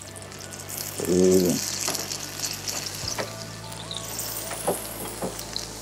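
Ragi (finger millet) dosa batter sizzling on a hot griddle, a steady hiss with a few faint clicks, likely from the wooden spatula against the pan. A brief voice sound about a second in.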